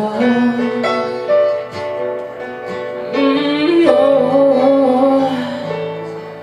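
A woman singing long held notes over guitar accompaniment. Her voice stops about five and a half seconds in, and the guitar fades out as the song closes.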